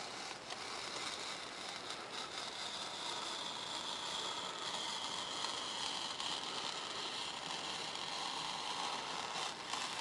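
Razor knife drawing a long cut through a 3 mm Depron foam sheet: a continuous scratchy hiss with a faint squeal that slowly drops in pitch.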